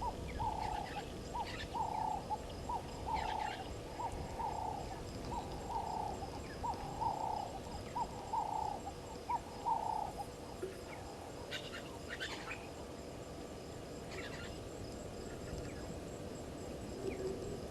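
A bird calling a long, even series of low hoots, each a short note followed by a longer one, about one pair every second, stopping about ten seconds in. Short, high chirps from other birds sound here and there.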